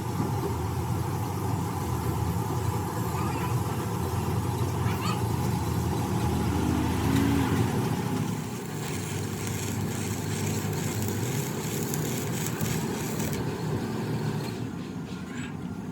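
An engine running steadily with a low hum, with voices in the background.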